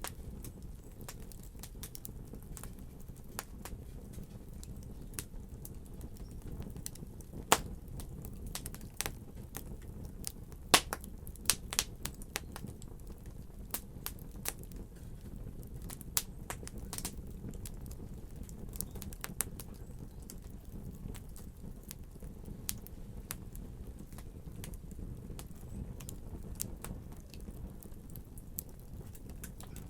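Wood fire burning in a fireplace: irregular sharp crackles and pops over a steady low rumble, with a few louder pops around the middle.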